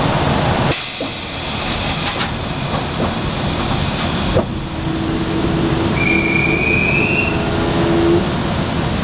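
Interior running noise of a Meitetsu 7000-series Panorama Car train: a steady rumble that drops suddenly about a second in. A click follows near the middle, then a steady hum and, partway through it, a faint whine rising slightly in pitch.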